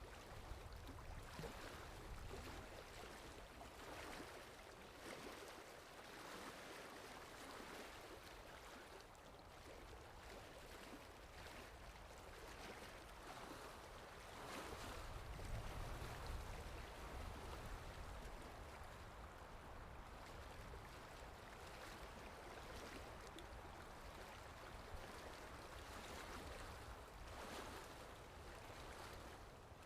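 Sea waves washing ashore in a continuous, swelling wash that rises and falls every few seconds, with a fuller, deeper surge about halfway through.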